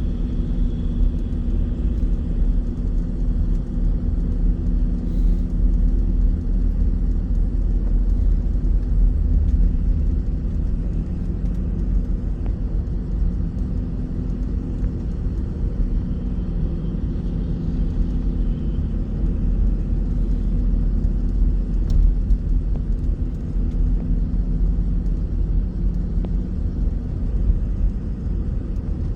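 A bus on the move: a steady engine drone with a deep road rumble underneath, unchanging throughout.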